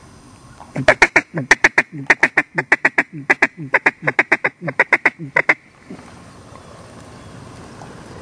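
Mallard duck call blown in a fast, loud run of about twenty hen quacks, roughly four a second, that stops about six seconds in: a hunter calling ducks in to the decoys.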